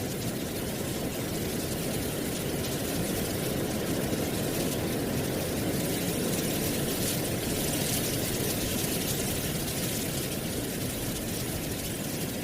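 Steady wind blowing through trees, with a low rush and a faint crackly rustle of dry leaves, swelling slightly around the middle.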